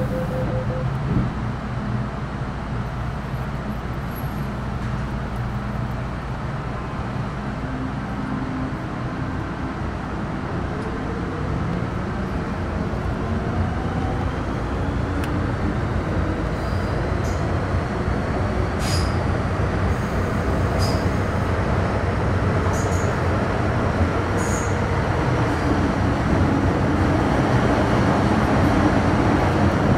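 MTR Metro Cammell M-Train (CM-Stock car C132) heard from inside the car, pulling away from a station: its GEC GTO chopper traction tones rise steadily in pitch over the rumble of wheels on track as the train gains speed, and the sound grows louder. A few short high clicks come through in the second half.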